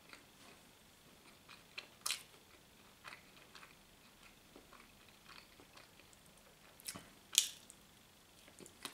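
A person chewing a butter-and-sausage sandwich with the mouth closed: soft, scattered wet clicks and smacks. Two sharper ones stand out, about two seconds in and, loudest, about seven seconds in.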